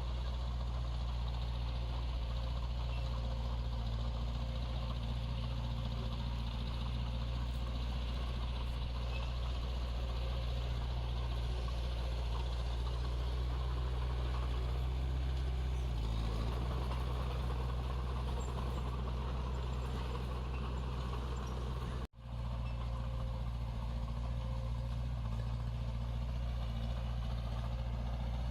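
Diesel engine of heavy earthmoving equipment running steadily, with a deep, even hum. The sound drops out for an instant about two-thirds of the way through.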